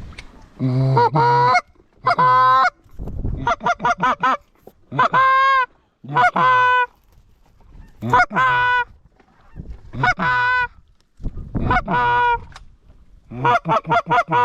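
Goose call blown hard by a hunter: loud honks and quick clucks in short bursts about every two seconds, some notes breaking upward in pitch, to work incoming geese.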